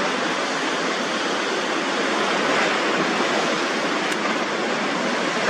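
Steady rushing noise of a violent storm, with no distinct events.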